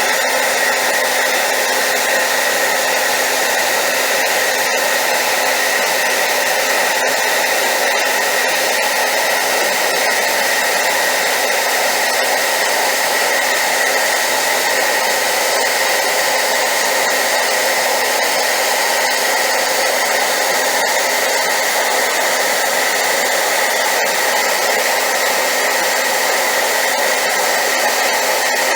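Hair dryer running steadily on high power: a loud, unchanging whoosh of air with a faint motor hum, used as a white-noise sleep sound.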